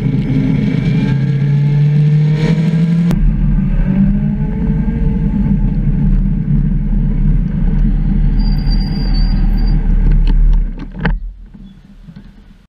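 Motorcycle engine recorded from an onboard camera, with wind rush, revving up through a bend. After a cut it runs at low revs at walking pace, then drops away about ten and a half seconds in.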